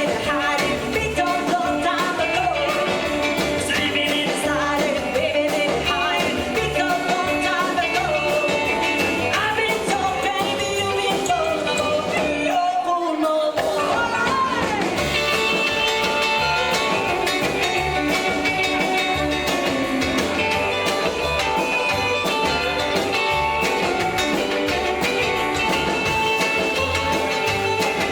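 Live rockabilly band playing a song with a steady, driving beat. About twelve seconds in, the bass and drums stop for about a second while a single sliding line carries on, then the full band comes back in.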